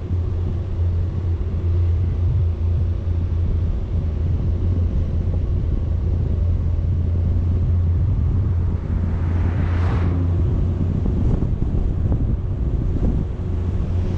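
Wind noise on the camera microphone over a steady low drone from a moving vehicle. About ten seconds in, a brief whoosh swells and fades.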